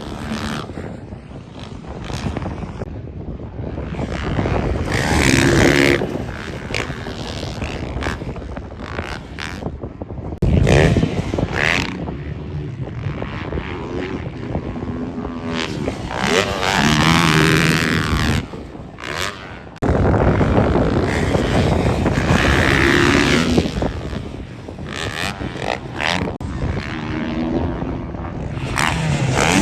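Yamaha YZ250F motocross bike's single-cylinder four-stroke engine revving up and down again and again as it is ridden hard around a track. The level jumps abruptly about ten and twenty seconds in.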